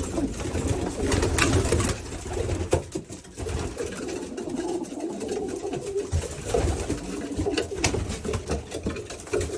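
Racing pigeons cooing in a loft: a continuous low, wavering cooing, with scattered sharp clicks.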